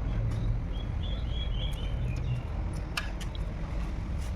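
A bird chirping in a quick run of short high notes over a steady low rumble, with a sharp click about three seconds in.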